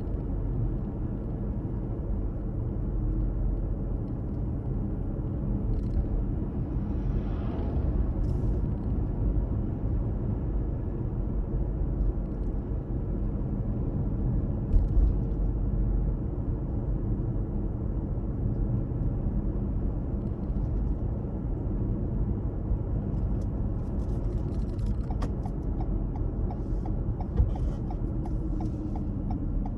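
A car driving on the road, with a steady rumble of road and engine noise. Near the end a regular ticking starts and the engine note drops as the car slows.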